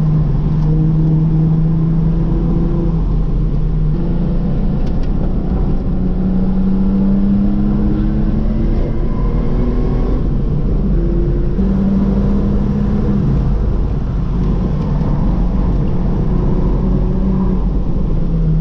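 Ford AU Falcon's engine heard from inside the cabin under track driving, its note climbing and dropping back several times as it pulls up through the gears, over steady road and tyre noise.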